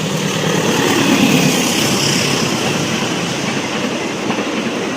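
A train running through the station at speed, loud and close, swelling to its loudest about a second in and then easing off.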